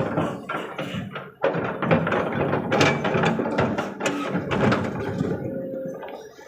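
Excavator running at work, its engine droning low under a stream of knocks and clatter while it loads earth into a dump truck.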